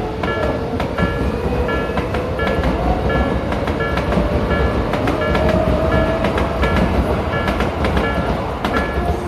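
A Japanese level-crossing warning bell ringing in a steady rhythm, about three rings every two seconds, while an electric commuter train passes. The train gives a continuous rumble with wheels clacking over rail joints and a whine that slowly rises in pitch.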